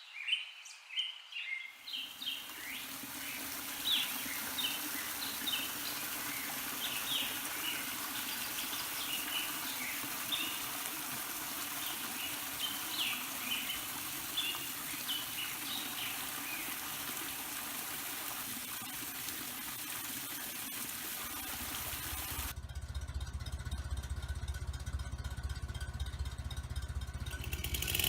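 Small birds chirping and calling over a steady rushing hiss. The chirps fade out after about two-thirds of the way through. A few seconds before the end the hiss drops away and a low rumble takes over.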